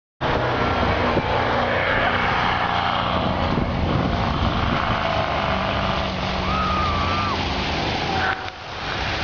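Lada Niva's engine running steadily as the 4x4 pushes through deep snow, a constant low drone with a rushing noise over it; the level drops briefly near the end.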